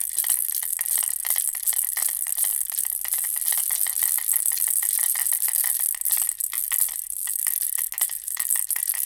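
Baby rattle toy, a bear-shaped ball rattle, shaken continuously: a dense, fast clatter of small beads inside the plastic shell, with brief lulls about six and eight seconds in.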